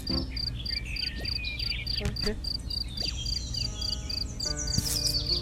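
Insects, likely crickets, chirping steadily in a high, even rhythm of about four chirps a second, with a few faint whistling glides and a short pitched tone in the latter half.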